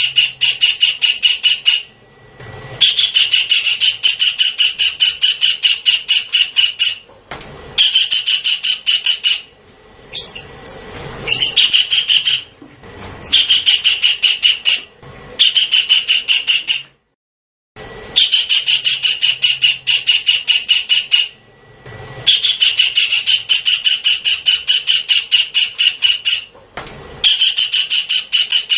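Javan kingfisher call played as a bird-lure recording: repeated bouts of a rapid, harsh, evenly spaced note, each bout one to four seconds long with short breaks between. The sound cuts out completely for under a second about halfway through.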